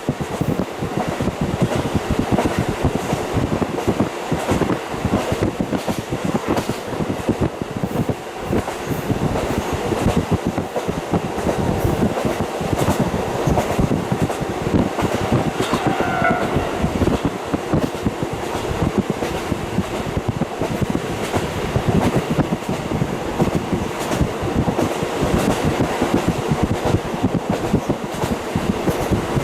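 KiHa 40 diesel railcar running along the line, heard through a fully open window: steady running noise of the diesel engine, wheels and rails with rapid clattering, and a brief pitched tone about halfway through.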